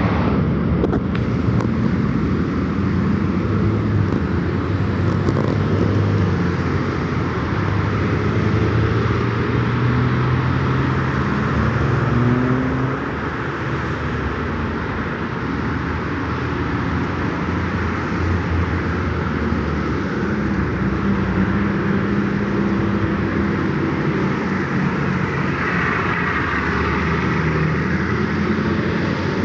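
A car running with steady road and tyre noise, its low engine note shifting in pitch; the level drops slightly about halfway through.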